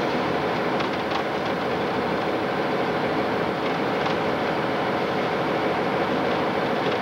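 Diesel locomotive running steadily as the train rolls along the track, with a few light clicks from the wheels about a second in and near four seconds.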